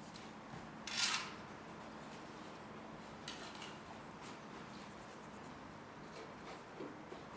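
Hand work in a garden bed: a brief, sharp scraping rustle about a second in, a softer one near three seconds, and a few faint clicks later, over a faint steady hum.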